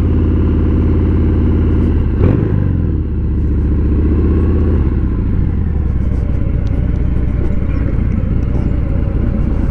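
Motorcycle engine running low and steady, with a short knock a little over two seconds in; after about five seconds the engine note turns rougher and less even.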